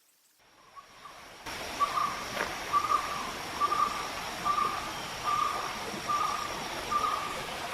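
A small forest stream running over stones, with a bird repeating one short call about every three-quarters of a second. The water and the calls start about a second and a half in.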